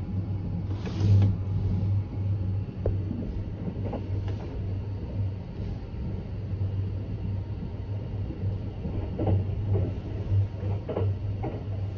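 Sunrise Seto sleeper train, a 285 series electric train, running along the line, heard from inside the car: a steady low rumble with scattered clicks and knocks from the wheels on the track.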